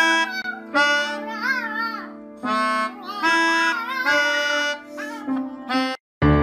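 Harmonica playing in several short phrases, with higher notes that waver and bend over steadier lower notes.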